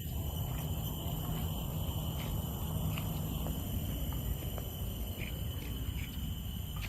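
Steady high-pitched drone of insects in a tropical park, over a low rumble, with a few faint clicks.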